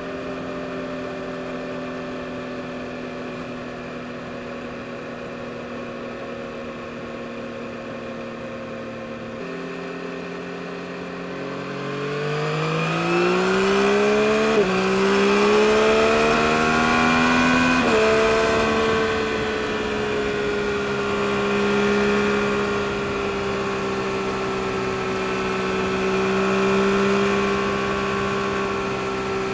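2022 Yamaha MT-09 SP's inline three-cylinder engine running at a steady note, which drops about a third of the way in; it then accelerates hard, its pitch rising through two upshifts, and settles into a steady cruise. Rushing wind rises along with the speed.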